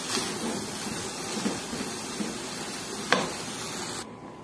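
Shredded chicken sizzling in oil in a stainless steel pot as it is stirred with a wooden spoon, with soft scraping strokes and one sharp knock of the spoon against the pot about three seconds in. The sizzle stops abruptly near the end.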